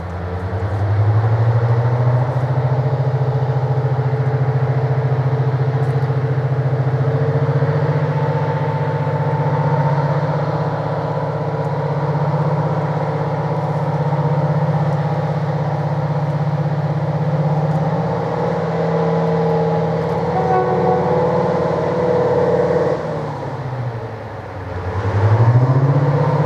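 Class 55 Deltic locomotive working on only one of its two Napier Deltic two-stroke diesel engines, pulling away hard with a loud, steady high engine note as its wheels slip. About three seconds before the end the engine note falls away and then climbs again.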